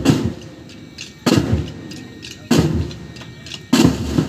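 Pipe band drum section playing bass and snare drums in loud accented bursts, one about every 1.2 seconds.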